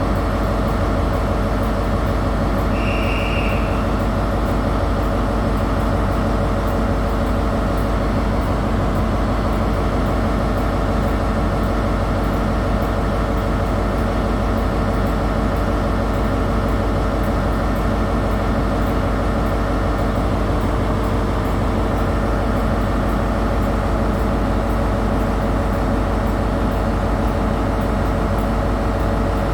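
Diesel train engine running steadily, a constant hum that neither rises nor fades. A short high beep sounds about three seconds in.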